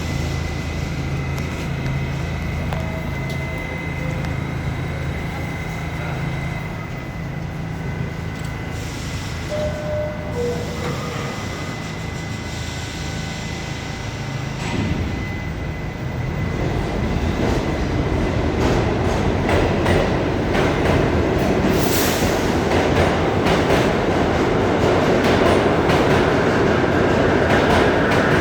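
R68 subway train with Westinghouse propulsion. It starts with a steady low hum, then from about halfway the rumble and clatter of wheels over the rails builds and grows louder, with a brief high squeal or hiss near the end.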